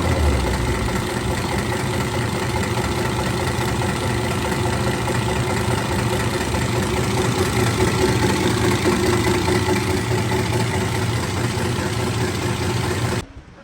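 Tractor's diesel engine idling steadily, then cutting off abruptly near the end.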